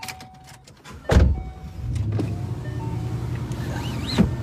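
Ford Mustang's engine starting about a second in with a brief loud rev, then settling into a steady idle.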